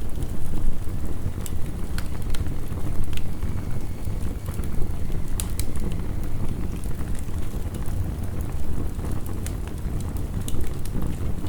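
Wood fire crackling, with scattered sharp pops, over a steady low rumble of heavy rain.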